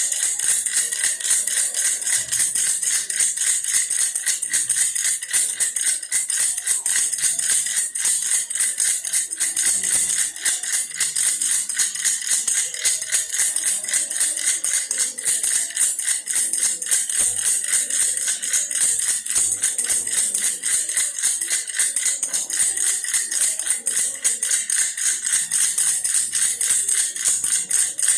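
Baby's toy bear rattle shaken fast and without pause: a dense, steady, high jingling rattle.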